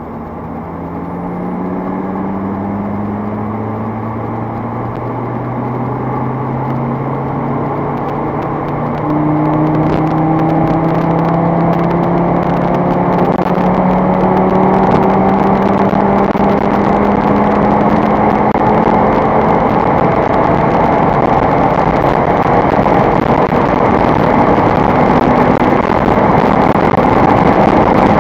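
Audi RS3's turbocharged 2.5-litre five-cylinder engine under sustained hard acceleration at high speed, its note climbing slowly and steadily in pitch and growing louder, with rising road and wind noise.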